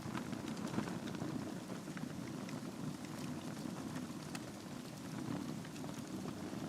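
Wood fire burning in a fireplace: a steady low rush of flames with frequent small crackles and pops from the burning logs.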